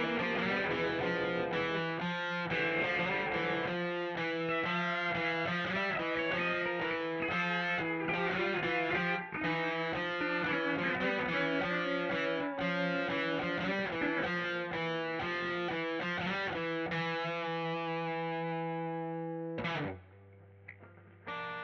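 Distorted electric guitar through effects playing a run of quick notes, then a held chord that rings out and fades, cutting off about 20 seconds in. A faint low hum is left afterwards.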